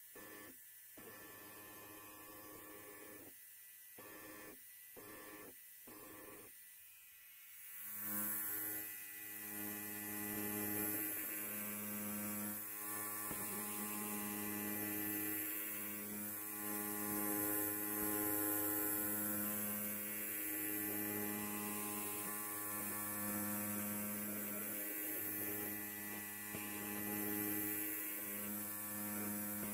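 Electric hair clipper buzzing steadily, faint for the first several seconds, then much louder from about eight seconds in.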